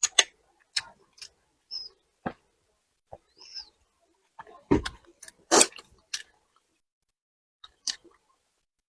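Eating sounds: a string of sharp clicks and crackles, loudest about five seconds in, with two brief high squeaks early on.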